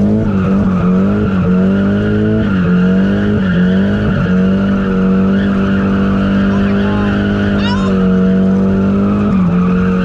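Nissan 240SX drift car's engine held high in the revs while the tyres squeal through a drift, the revs dipping and coming back up a few times.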